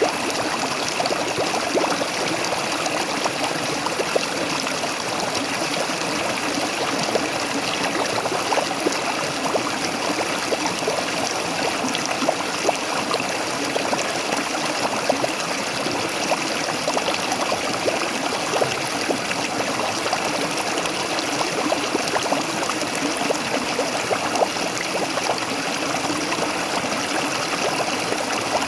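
Water of a waterfall pouring and splashing steadily, with many small splashes and trickles, unchanging throughout.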